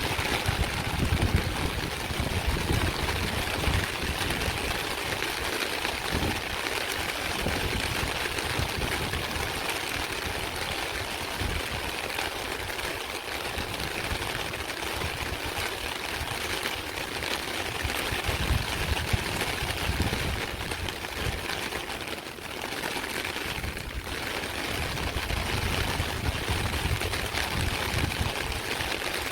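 Rain falling steadily with water running, an even hiss, under a low rumble that comes and goes.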